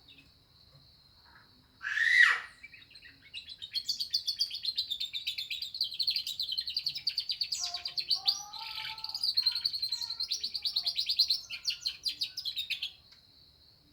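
Canary singing a long, loud song of rapid trills and warbles, its repertoire filled in with lovebird-style phrases, after one sharp sweeping call about two seconds in.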